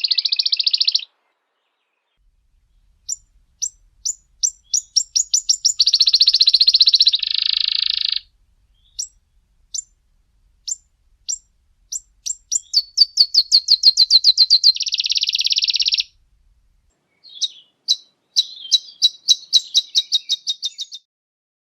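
A songbird singing: each song is a run of sharp high notes that speeds up and ends in a dense buzzy trill. The song comes about three times with short pauses between.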